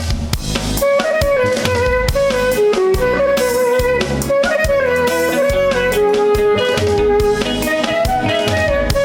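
Live band playing an instrumental introduction to an Albanian folk-pop song. Drum hits open it, then from about a second in a melody carries on over keyboard chords and a steady drum beat.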